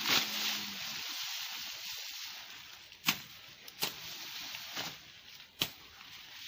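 Rustling hiss, loudest at the start, with three sharp snaps in the second half.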